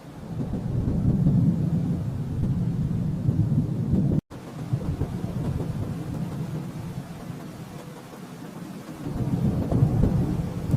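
Rolling thunder: a low rumble that swells up at the start, eases off in the middle and swells again near the end, with a split-second dropout about four seconds in.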